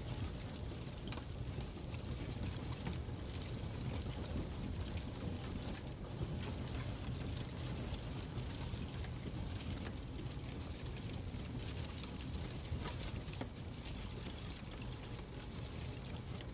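Crackling fireplace: a steady low rumble of burning with scattered small crackles and pops.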